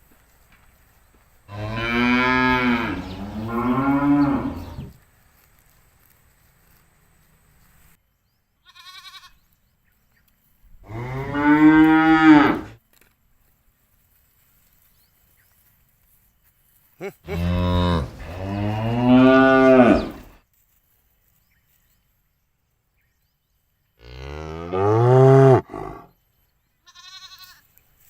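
Cows mooing: four long, loud moos spaced several seconds apart, each bending in pitch, the first and third drawn out in two parts. Two short, faint calls fall between them.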